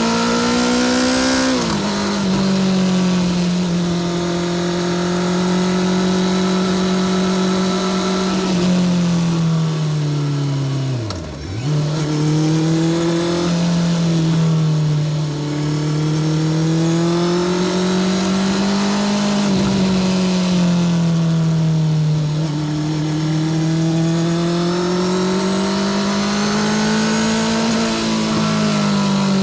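Honda CBR650R inline-four engine running through a Spark titanium short exhaust, its pitch rising and falling with throttle and gear changes. Revs drop sharply just after a second in, and dip steeply and briefly about eleven seconds in before climbing again.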